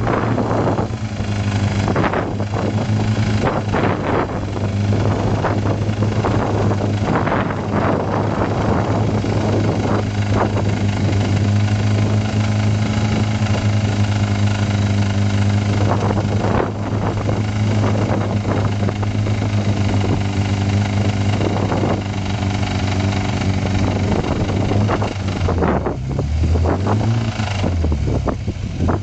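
Mazda 626 engine held at steady high revs while being run to destruction, a loud, even drone. A few seconds before the end the pitch wavers, dipping and rising as the revs fall and pick up again.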